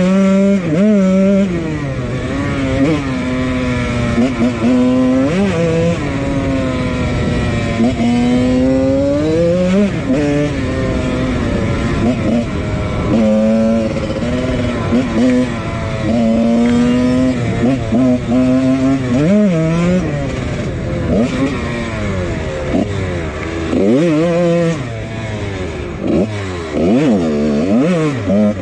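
1999 Husqvarna CR125's single-cylinder two-stroke engine being ridden hard, revving up and dropping back over and over, its pitch climbing and falling every second or few as the throttle is worked and gears are shifted.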